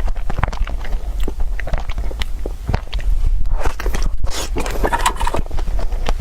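Close-up eating sounds: irregular bites and chewing, with many short crunchy clicks and scrapes.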